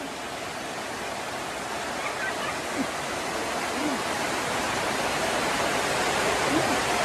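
Heavy rain falling, a steady hiss that grows gradually louder.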